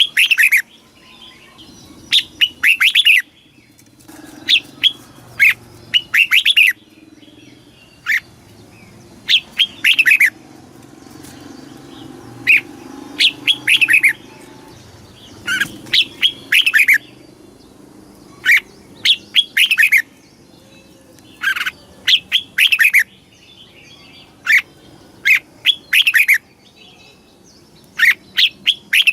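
Red-whiskered bulbul singing: loud short phrases of a few quick notes, each falling in pitch, repeated every second or two.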